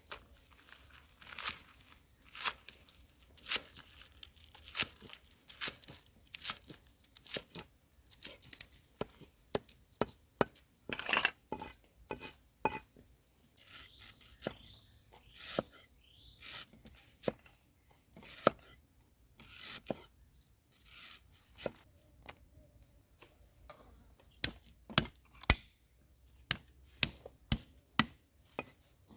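Knife chopping food on a cutting board: a long run of sharp, irregular knocks, with some scraping in the middle, settling into about two chops a second near the end.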